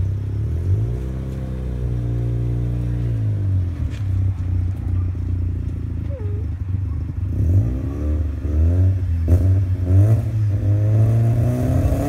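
Second-generation Mazda RX-7's 13B rotary engine revving repeatedly as the car moves slowly: one held rev in the first few seconds, then several short revs, the last climbing higher near the end.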